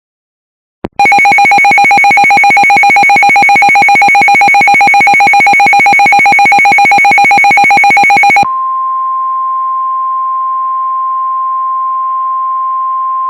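NOAA Weather Radio alert tones: a loud, harsh buzzing alert tone with a fast flutter for about seven seconds, then it switches to the steady single-pitch warning alarm tone, the 1050 Hz tone that signals a new warning is about to be read.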